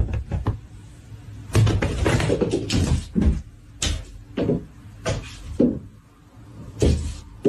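A run of irregular knocks and bumps, about a dozen, with a longer stretch of rustling and knocking about two seconds in.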